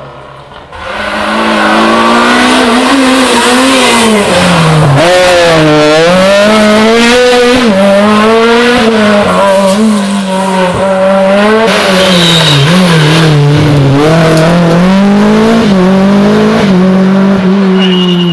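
Rally car engine at full throttle close by, loud and sustained, its revs rising and falling again and again with gear changes and throttle lifts.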